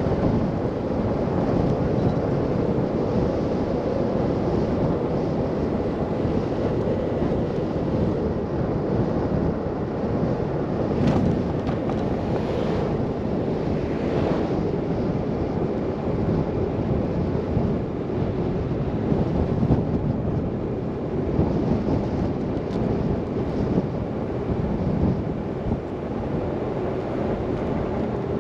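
Steady rushing noise of wind and a car driving along a snowy road, with a few faint ticks about halfway through.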